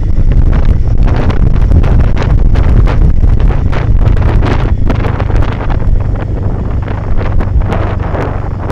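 Heavy wind buffeting on the microphone of a moving motorcycle, with the Royal Enfield Himalayan 450's single-cylinder engine running as a steady low drone underneath.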